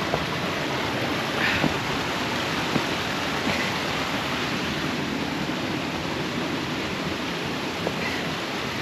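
Steady rush of a mountain stream running over rocks, with a few faint light knocks.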